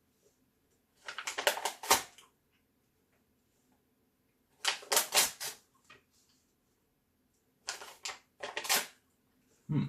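Crackling, clicky paper noises from a printed paper picture being eaten, in three bursts of about a second each.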